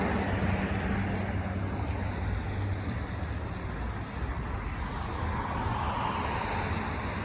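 Third-generation Mitsubishi Eclipse's engine running at low speed as the car is driven up into the shop, with a steady low hum that weakens about two seconds in.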